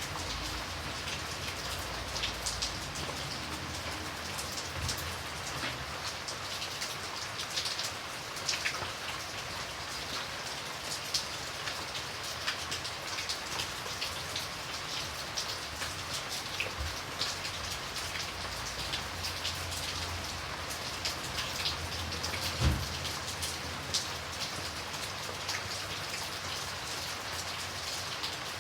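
Steady rain falling, with many individual drops striking close by as short sharp ticks over an even hiss. One louder knock about three-quarters of the way in.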